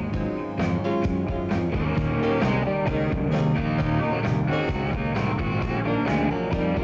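Instrumental opening of a beach music song, before the vocals come in: electric guitar over a steady drum beat of about two strokes a second.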